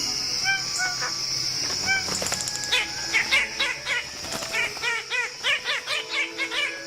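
A bird-of-paradise calling: short arched, honking notes, spaced out at first, then quickening from about two and a half seconds in into a rapid run of calls, over a steady high-pitched hiss.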